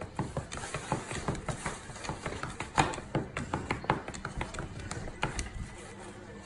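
Irregular light clicks and taps as a foam takeout container is handled and its lid opened.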